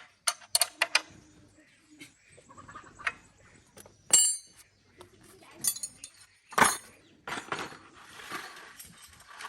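Metal tools and parts clinking and knocking during hand repair work: a few sharp clicks, a ringing metallic strike about four seconds in, a heavier knock a little later, then a rasping, scraping noise near the end.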